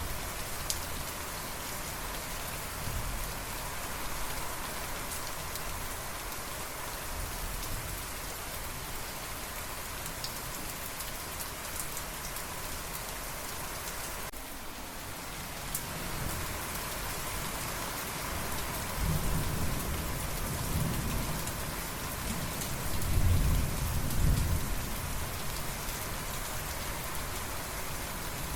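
Steady heavy rain falling on surfaces, with scattered drop ticks. About two-thirds of the way through, thunder rolls in as a deep rumble that swells in waves before fading.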